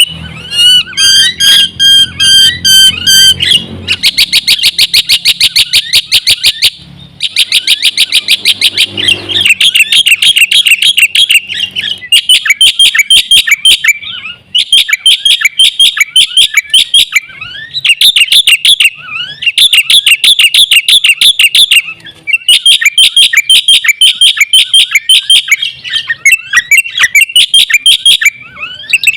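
Black-winged myna (jalak putih) in full song, giving a loud, fast chatter of rapidly repeated high notes in bouts broken by short pauses. In the first few seconds the chatter gives way to a few clearer whistled notes.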